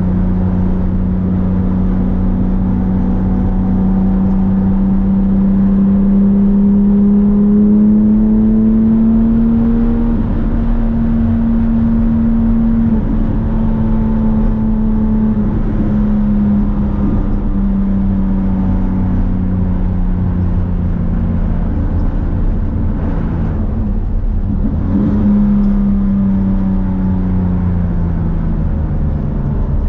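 Porsche 997 GT3's flat-six engine pulling hard on track. Its note climbs slowly through the first ten seconds, then eases off and builds again, with several short dips and steps in pitch as the driver lifts and shifts.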